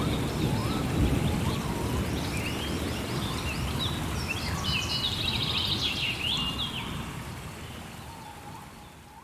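Rainforest ambience: rain with a low rumble of thunder, and birds calling over it, with a busy flurry of high chirps in the middle. The whole soundscape fades out toward the end.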